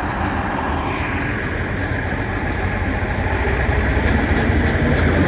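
Diesel engine of a loaded Mack CXU613 log truck running under load as it pulls out of the woods, steadily getting louder. Near the end a quick run of light clicks comes in, about three a second.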